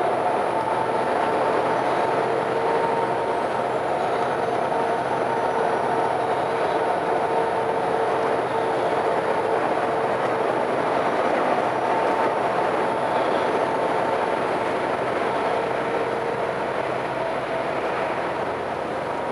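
Steady running noise of a moving vehicle, an even rumble with a few steady hum tones, fading slightly near the end.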